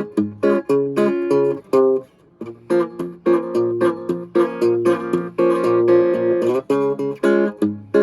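Vintage Silvertone hollowbody electric guitar strummed in quick rhythmic chords, with a short break about two seconds in and a stretch of longer ringing chords through the middle before the quick strums come back.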